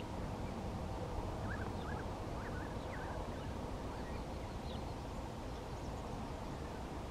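Outdoor ambience: faint, scattered bird chirps over a steady low rumble, the chirps mostly in the first half.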